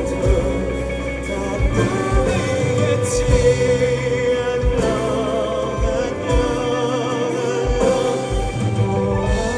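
Live band playing a slow song with a singer's voice over it and a regular kick drum beat.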